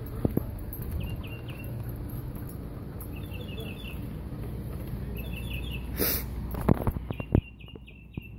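A bird singing short phrases of three or four quick high chirps, repeated every couple of seconds. A brief rushing noise comes about six seconds in, followed by a few sharp knocks.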